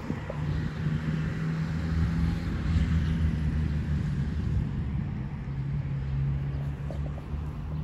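A motor vehicle engine running with a steady low hum that steps down slightly in pitch about five seconds in.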